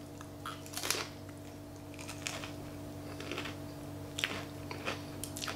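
Crisp baked pita chip topped with spinach artichoke dip being chewed: a few short, irregular crunches over a steady low hum.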